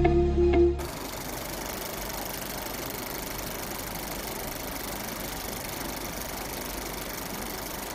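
Small electric motor of a homemade toy tractor running steadily, spinning a rubber belt that drives a bottle-cap water pump. Music cuts off under a second in, and the motor hum carries on at an even level.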